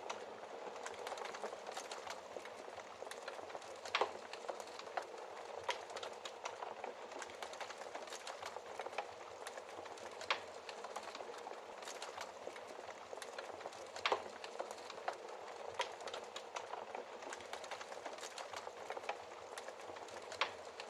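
Wood fire crackling in a fireplace: a steady soft hiss of burning with many small crackles and a few sharper pops, the loudest about four, ten and fourteen seconds in.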